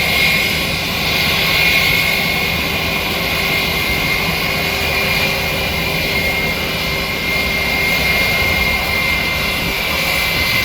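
Airbus A320 jet engines running steadily: a continuous rushing noise with a high whine held at one pitch.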